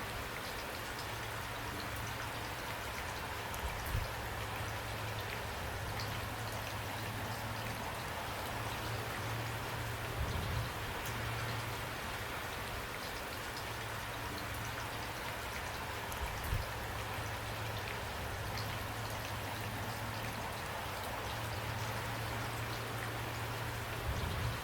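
Steady rain falling, with countless small drop ticks over an even hiss, and a few louder low knocks spaced several seconds apart.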